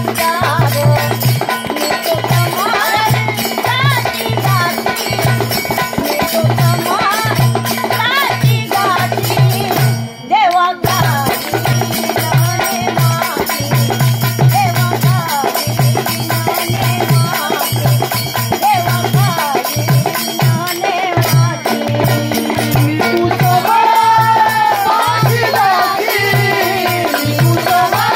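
A woman singing a Marathi folk devotional song with an ektari drone, a steady pulsing drum beat and a shaken rattle. The music drops out briefly about ten seconds in, then carries on.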